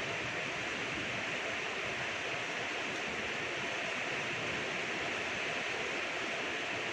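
Steady rainfall: an even hiss of falling rain, without a break or change.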